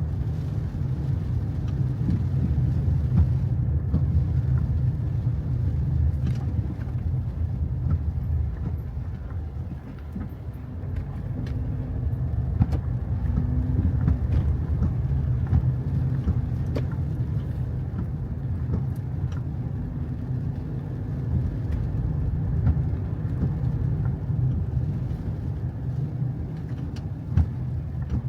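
Steady low rumble of a car on the move, with scattered faint clicks.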